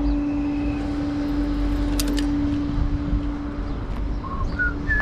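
Tow truck running with a low rumble and a steady hum that cuts off a little before the end, a few sharp metallic clicks about two seconds in, and small birds chirping near the end.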